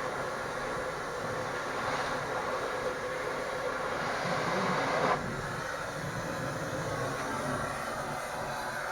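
Gas cutting torch hissing steadily while cutting steel pipe, growing louder and then cutting off abruptly about five seconds in.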